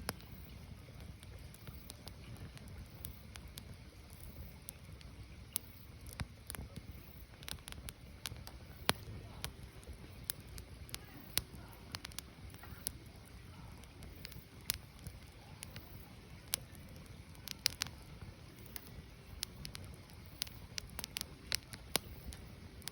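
Firewood burning: irregular sharp crackles and pops from the burning logs over a low, steady rumble of the fire.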